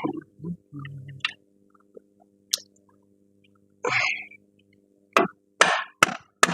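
Scattered knocks and clicks of metal parts and tools being handled while a car's front strut is fitted back in, over a faint steady hum. A longer scraping knock comes about four seconds in, and a quick run of sharp clicks near the end.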